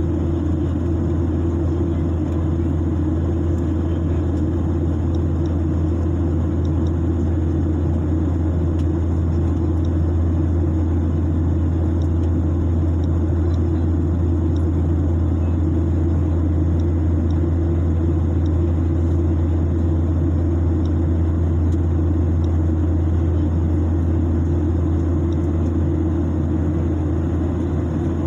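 Airliner cabin noise during the climb: a loud, steady low rumble of engines and airflow with no change in pitch.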